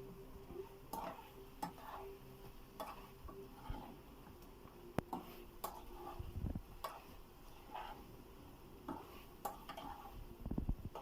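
Metal spatula stirring spiced chicken in a cooking pan, knocking and scraping against the pan's side in irregular clinks about once a second.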